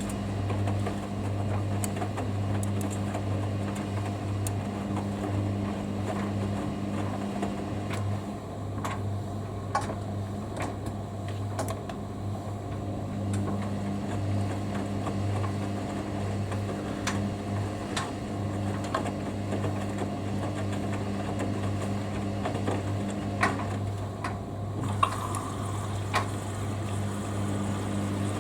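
Hoover Dynamic Next washing machine running mid-cycle: a steady low hum from its motor or pump with scattered light clicks and ticks. About 25 seconds in, a higher hiss joins the hum.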